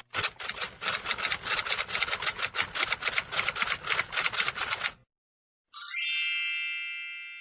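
Typewriter sound effect: rapid key strikes clattering for about five seconds, then a single bell ding that rings out and fades.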